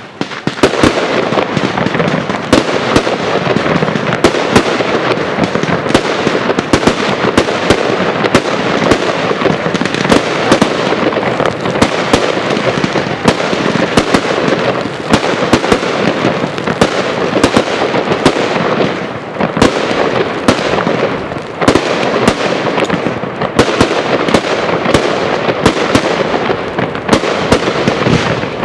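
Fireworks display at full barrage: a dense, rapid string of bangs from aerial shell bursts over continuous crackle. The barrage jumps in loudness just after the start and stays at full intensity.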